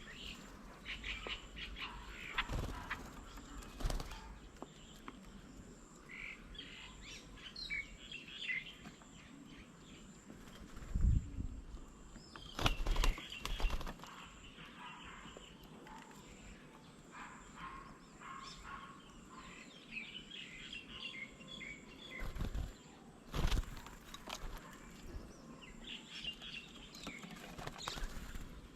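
Small birds chirping in quick bursts at a bird table, with several short low thumps and wing flutters scattered through.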